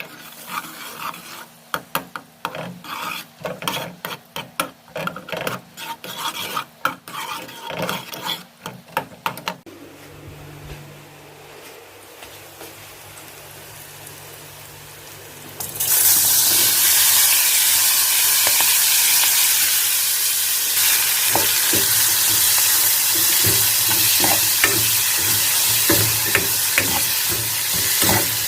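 Sharp clicks and knocks of kitchen utensils, then, about two-thirds of the way in, a loud sizzle starts suddenly as food goes into a hot pan of oil, with a spatula stirring and tapping through the frying.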